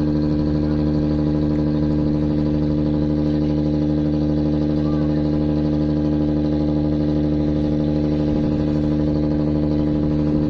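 Engine running at a steady, unchanging speed, a constant drone.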